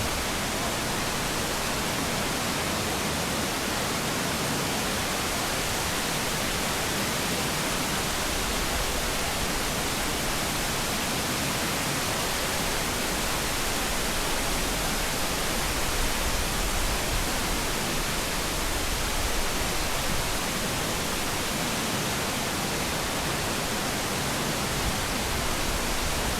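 Waterfall running: a steady, unbroken rush of falling water heard close by, spread evenly from low to high.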